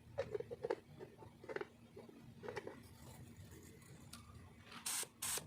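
Light knocks and clatter of handling in the first few seconds, then near the end two short hissing bursts from an air-compressor-fed paint spray gun being triggered.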